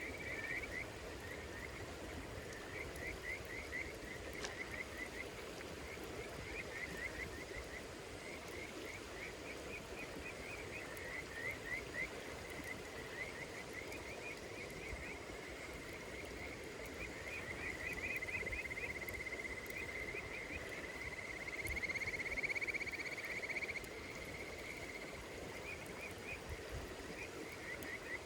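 Night chorus of small calling animals: short, rapidly pulsed chirps repeated in quick series, with a longer unbroken trill about two-thirds of the way through.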